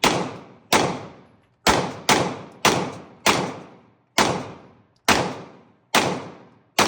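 Gunshots from a semi-automatic firearm at a shooting range, about ten rounds fired one after another at an uneven pace, each shot followed by a fading echo.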